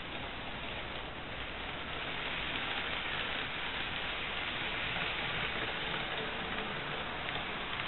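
N gauge model train running along layout track: a steady rushing rumble of wheels on rail and the small motor, growing a little louder about two seconds in.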